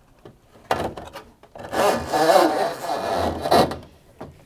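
Washing machine drain hose being pushed through the machine's drain hose hole, rubbing and scraping against the edge of the opening. It is loudest for about two seconds in the middle, then fades.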